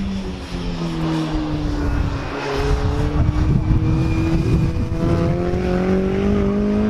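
BriSCA F2 stock car engine running on track: the revs drop over the first two or three seconds as the throttle comes off, then climb steadily again under acceleration.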